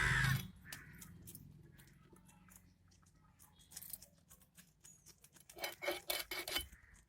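A blade cutting small fish, taking off the heads: faint scraping, then a run of short clicks and cuts a few seconds in.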